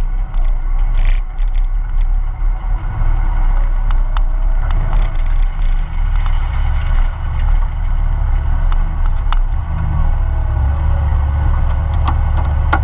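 VG Valiant's engine running steadily at low revs, heard from inside the cabin, with a few sharp clicks and rattles.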